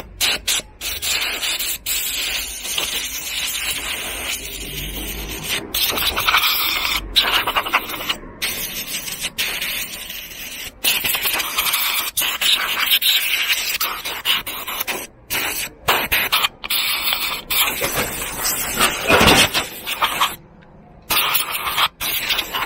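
Scrubbing and rubbing noises of vacuum cleaner parts being cleaned by hand, in short stretches broken by frequent abrupt cuts.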